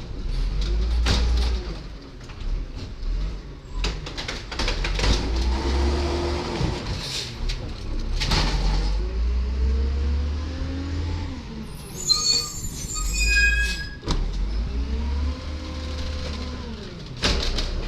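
Diesel engine of a 1999 Volvo Amrep Octo automated side-loader garbage truck running, its pitch rising and falling several times, with a low rumble throughout and short sharp noises. A brief high-pitched squeal about twelve seconds in.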